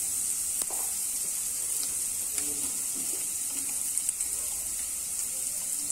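Onion, ginger and spice masala sizzling in oil in a wok: a steady high hiss, with a few light clicks.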